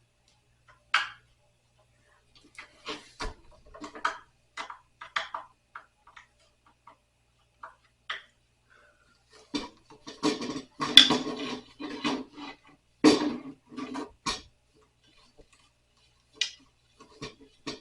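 Scattered clicks and metallic clinks of screws and hardware being handled while a nightstand is taken apart, with a busier run of knocks and clatter about halfway through.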